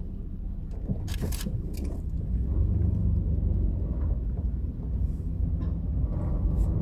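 Steady low rumble of a car driving slowly, heard from inside the cabin, with a short sharp click about a second in.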